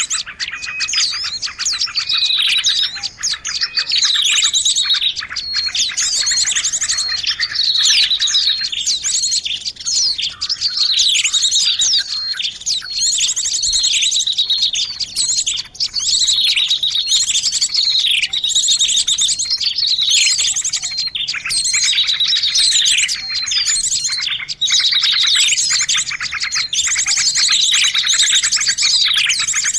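Bird-luring recording of many small birds calling at once: a dense, noisy chorus of overlapping high chirps, rapid trills and repeated falling whistles.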